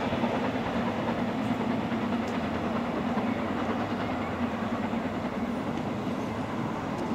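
Steady rumble of a steam-hauled passenger train's coaches running on the rails as the train moves away, with a constant low hum, fading slowly.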